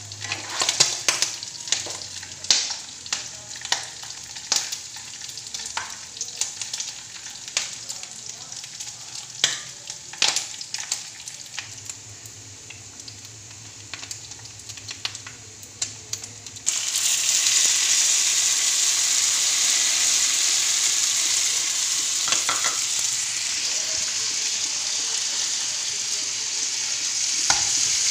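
Diced pork and garlic frying in oil in a nonstick frying pan, the fat crackling and popping as a spatula stirs and scrapes. About two-thirds of the way in, the sizzle suddenly jumps to a loud, steady hiss.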